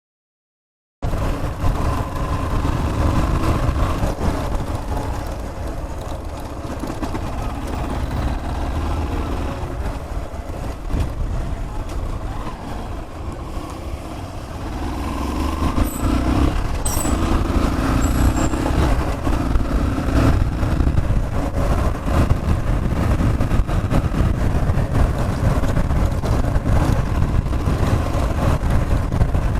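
Road vehicle running, with steady engine and road noise that grows louder about halfway through.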